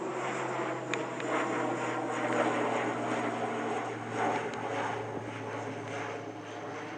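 Airliner engines running steadily: a low, even hum under a broad rush of noise.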